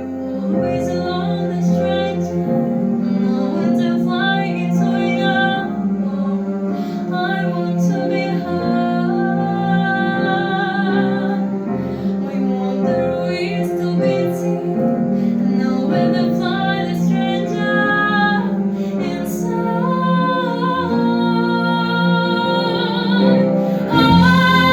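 A song with a woman singing over an instrumental accompaniment.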